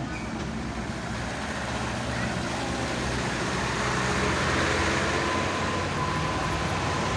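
Road traffic noise: vehicle engines running steadily with a low hum over road noise.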